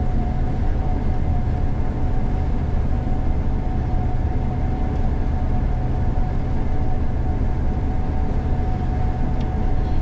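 Gleaner combine harvesting soybeans, heard from the operator's cab: a constant low drone with a thin steady whine above it.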